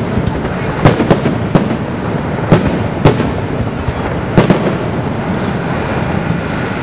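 Fireworks display: sharp bangs of bursting aerial shells, about seven of them spread over the first five seconds, over a continuous crackle.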